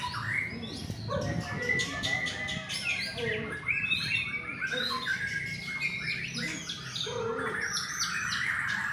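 White-rumped shamas singing over one another, a dense, unbroken jumble of varied whistles, quick chirps and rapid trilled notes.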